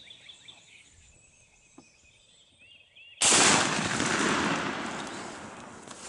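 A single loud gunshot about three seconds in, its report rolling away over the next few seconds. Faint bird chirps come before it.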